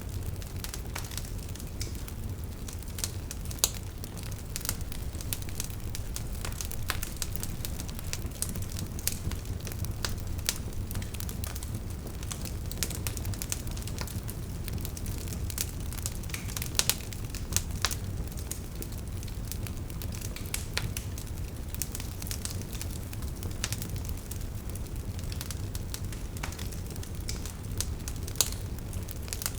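Wood fire burning, logs crackling with irregular sharp pops over a steady low rumble of the flames.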